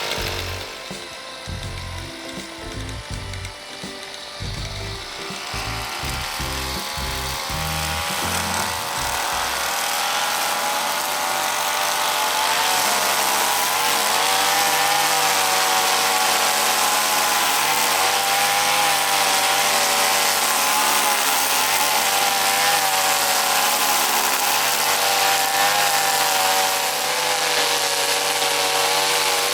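Background music with a bass beat for the first several seconds, giving way to a brush cutter's engine running at high speed with its pitch wavering slightly. The engine grows louder as the music stops.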